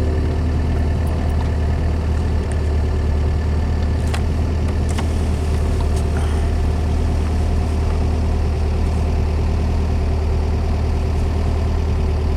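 Volkswagen Baja Bug's engine idling steadily, a constant low hum, with a few light clicks about four to six seconds in.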